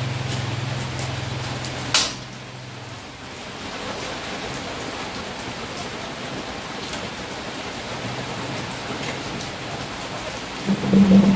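Steady rain falling. A low, steady hum runs underneath at first and stops about three seconds in, with a sharp click about two seconds in. A loud, low pitched tone comes in near the end.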